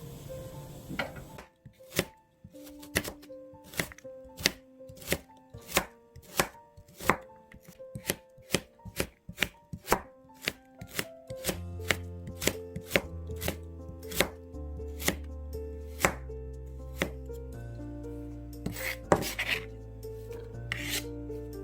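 Knife chopping on a cutting board in steady strokes, about two a second, over background music of held notes; a low bass line joins about halfway through.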